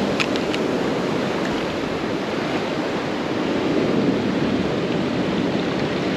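Steady wash of ocean surf on a beach.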